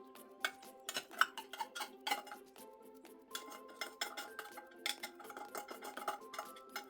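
Irregular light clinks and taps of a utensil against dishware, as in stirring, over soft background music.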